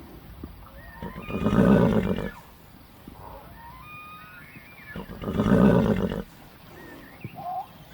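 A horse neighing twice, each call lasting about a second, a few seconds apart.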